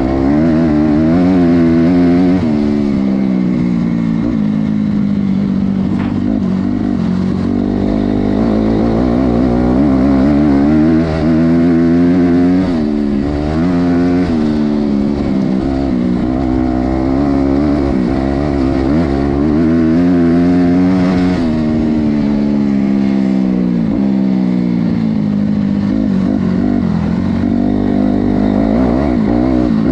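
Honda CRF250R's single-cylinder four-stroke engine, run hard, its pitch climbing and dropping back over and over as the throttle is opened and closed.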